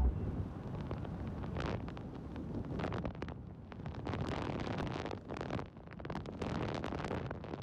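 Wind buffeting the microphone of a moving car, an uneven rushing noise that rises and falls in gusts.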